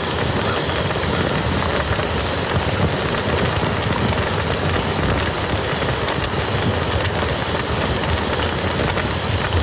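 Campfire crackling with occasional small pops over the steady rush of a flowing river.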